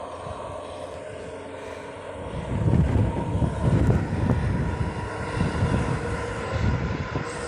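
Truck engine running hard under heavy throttle, getting louder with a rough low rumble about two seconds in.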